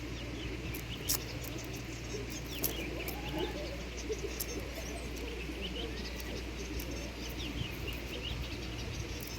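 Birds chirping and calling outdoors in many short repeated chirps, with a few sharp clicks about a second in and near the three-second mark.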